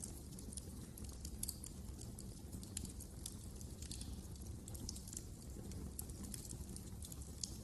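Wood fire in a fireplace crackling, with many small irregular sharp pops over a low steady rumble of the flames.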